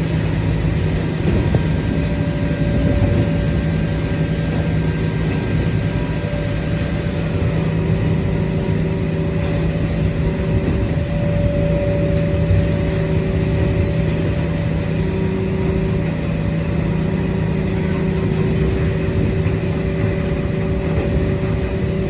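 Idromec T 650 CLS scrap metal shear baler running: a steady, loud mechanical hum from its hydraulic drive, with several held whining tones, one of which drops in and out, and a few faint knocks.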